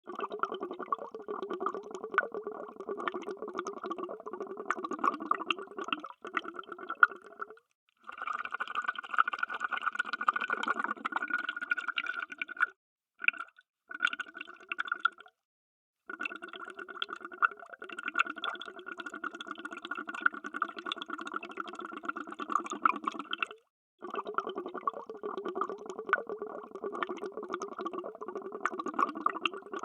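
Underwater bubbles: a dense, continuous stream of bubbling and gurgling, broken by several brief silences.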